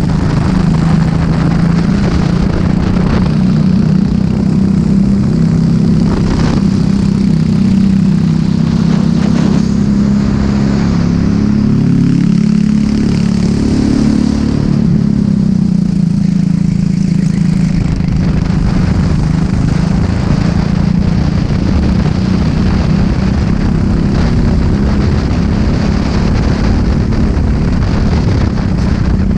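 Racing kart engine running hard, its pitch rising and falling with the throttle through the corners, with a stronger rise and fall about halfway through, over a constant low rumble of wind and vibration on the onboard microphone.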